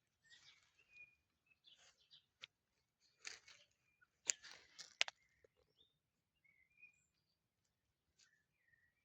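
Faint outdoor birdsong: scattered short chirps from small birds. Brief rustling and a few sharp clicks about three to five seconds in are the loudest sounds.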